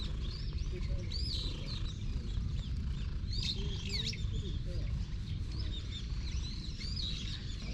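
Small birds chirping over and over in quick, bending notes, thickest about a second in, around the middle and near the end, over a steady low rumble.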